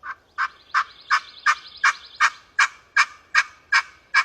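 Turkey call worked by hand in a series of light, pleading hen yelps: about a dozen evenly spaced notes, nearly three a second, used as a locator call to strike up a gobble from a tom ready to respond.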